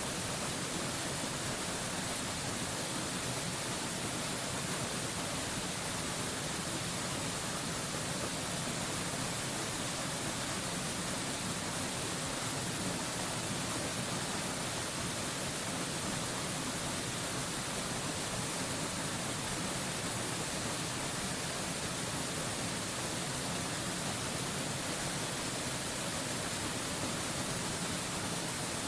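Steady rushing of a waterfall, an even hiss with no changes.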